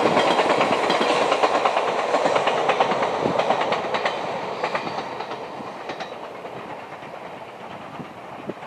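Super Kuroshio limited express electric train running past along the line, its wheels clicking rapidly over the rail joints, the sound fading steadily as it draws away.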